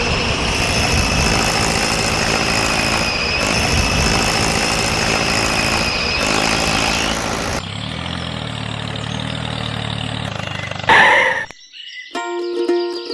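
A small motor runs steadily with a high whine over a rattly mechanical noise. About seven and a half seconds in it changes abruptly to a lower, steadier hum. A short loud sound comes near the end, and then plucked-string background music begins.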